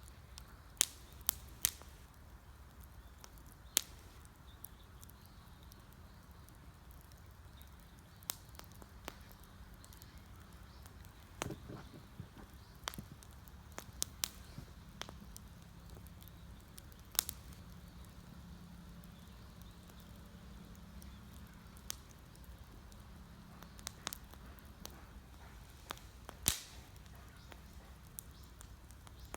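Wood campfire crackling, with sharp, irregular pops and snaps as the burning wood splits, over a low steady rumble.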